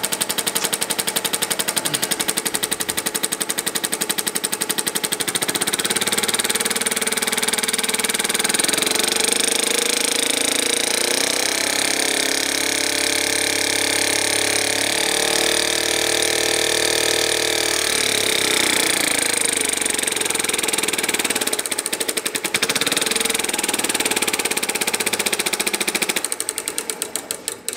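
Single-cylinder compressed-air model engine, with a cam-driven ball-bearing inlet valve and a spring-loaded ball-bearing exhaust valve, running fast: a rapid, even chuffing of exhaust puffs, one power pulse per revolution. Its speed rises and falls in the middle. Near the end the puffs spread out and fade as the engine runs down to a stop.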